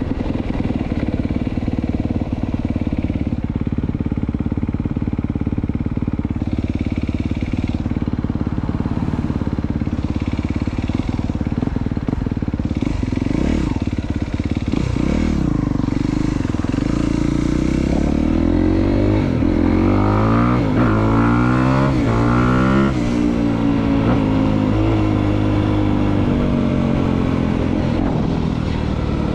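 Honda CRF250R's single-cylinder four-stroke engine idling steadily while warming up, then revving up and down in a series of rising and falling sweeps through the second half.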